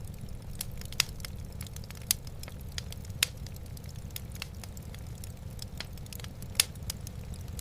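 Wood fire burning in a fireplace, crackling with irregular sharp pops and snaps, a few louder than the rest, over a steady low rumble.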